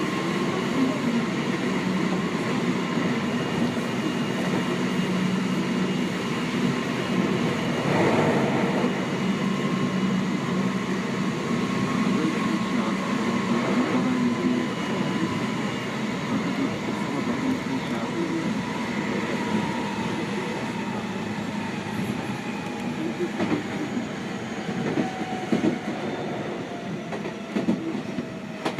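Running sound of a Seibu 6000 series electric train heard from inside the car: steady rail and wheel rumble with clickety-clack and a motor whine. The whine holds its pitch at first, then falls steadily in the last third as the train slows.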